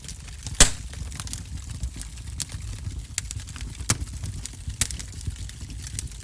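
Fireplace fire crackling and popping: a steady low rush of flames broken by frequent sharp pops, the loudest about half a second in and two more strong ones around four and five seconds in.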